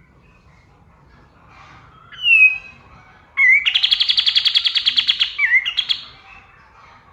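Kapas tembak songbird singing: a short, loud falling whistle about two seconds in, then a fast, even, rattling trill of about a dozen notes a second lasting some two seconds, with fainter bird chirps behind.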